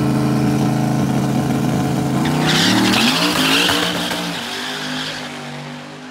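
Jeep Grand Cherokee's engine held at steady high revs on the drag-strip start line, then launching a bit over two seconds in with a burst of tyre noise as the revs change. The sound fades as it pulls away down the track.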